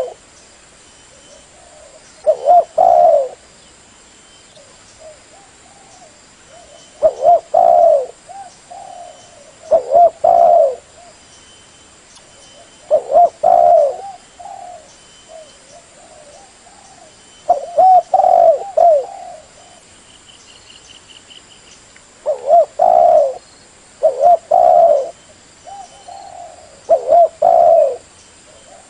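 Spotted dove (terkukur) cooing: a short phrase of a few mellow notes, repeated about every three to four seconds. Faint high chirps sound in the gaps.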